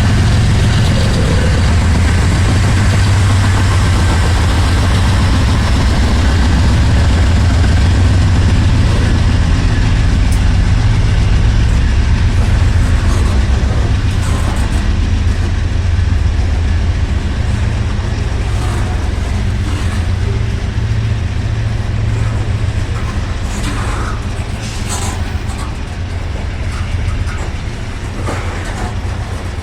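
Diesel locomotives of a BNSF freight train running past, a steady low engine drone that eases slowly after the middle, with a few sharp clicks from the rails near the end.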